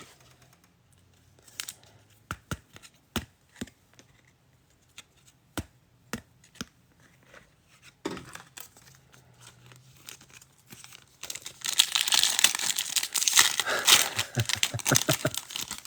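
Scattered light clicks and snaps of trading cards being handled. About eleven seconds in, a few seconds of loud ripping and crinkling as a foil trading-card pack is torn open.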